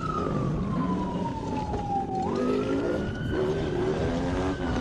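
Police car siren wailing: one slow falling tone that sweeps back up about two seconds in and holds high before starting to fall again near the end, with a vehicle engine running underneath.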